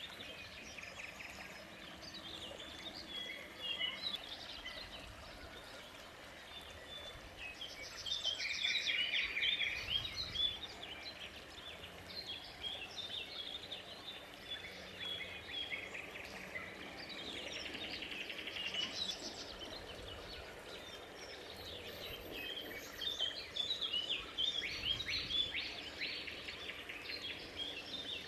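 Small birds chirping and singing over a steady background noise, with louder flurries of rapid trills about eight seconds in, around seventeen seconds, and again near the end.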